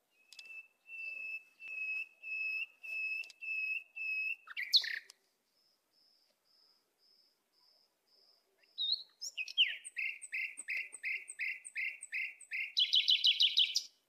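A songbird calling: a run of evenly spaced, steady whistled notes, then after a quieter pause a faster series of short notes, about three a second, ending in a quick trill.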